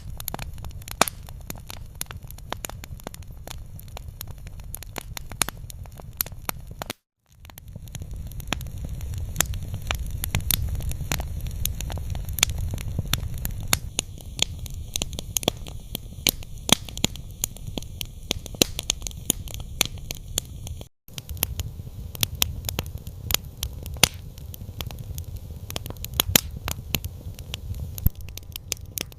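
Campfire crackling, with frequent sharp pops and snaps over a steady low rumble. The sound cuts out for an instant twice.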